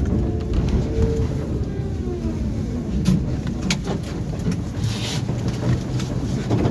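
Tram running along its rails, heard from inside the passenger car: a steady low rumble of wheels and running gear, a faint gliding whine in the first couple of seconds, and a few sharp clicks partway through.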